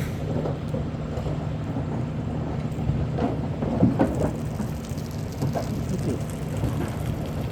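Steady low hum of an idling truck engine under rumbling wind noise on the microphone, with a few scattered knocks.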